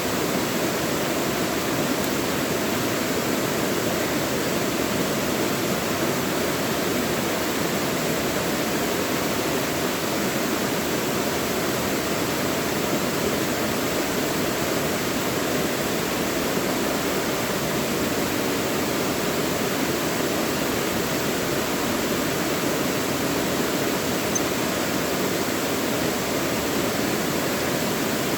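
Mountain valley stream rushing steadily over rocks, an even, unbroken water noise.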